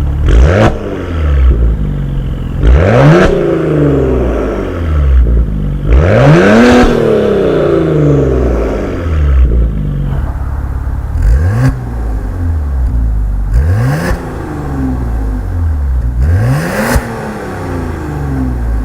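Maserati Ghibli S twin-turbo V6 revved through an aftermarket RES valvetronic cat-back exhaust: about six quick blips, each climbing sharply and falling back to idle.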